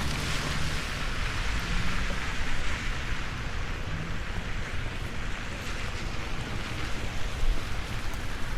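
Steady rain falling, an even hiss of drops, with a low rumble underneath.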